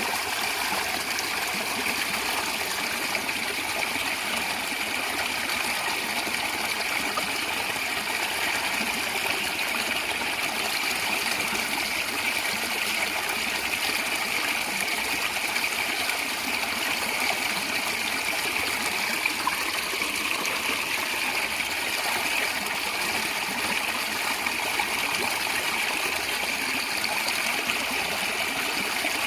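A small stream of water gurgling and trickling steadily, an even hiss of running water without pause.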